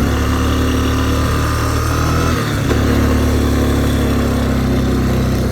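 Vehicle engine running hard under load as it pushes through deep snow. It dips briefly about halfway through, then picks up again.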